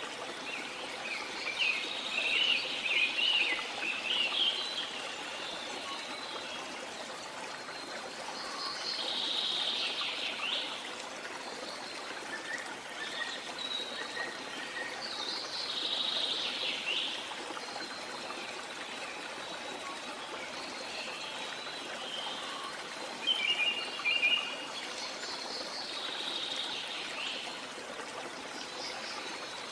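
Steady running water of a stream, with birds calling over it in short bouts every few seconds.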